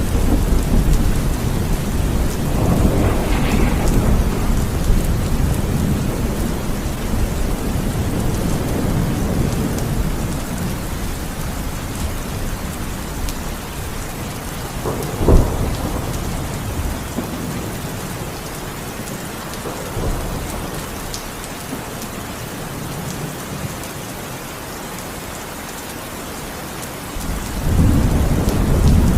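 Heavy rain falling steadily in a thunderstorm. Thunder rumbles at the start and dies away, a sharp crack comes about halfway through, and a fresh rumble builds near the end.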